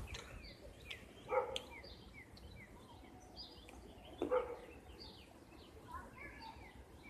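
Small birds chirping, many short calls each falling in pitch, with two short louder calls cutting in about a second and a half in and again about four seconds in.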